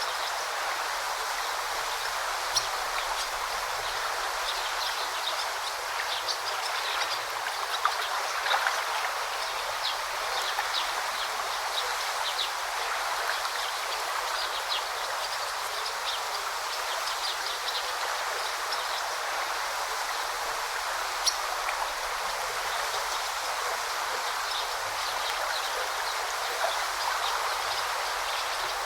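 A forest river flowing steadily, a constant rushing of water. Short high bird chirps come through now and then.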